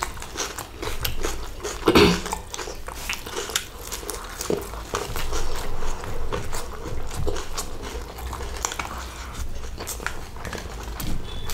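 Close-up chewing and mouth sounds of a person eating biryani by hand, with frequent small clicks and crackles as fingers mix rice on a banana leaf. A louder sound stands out about two seconds in.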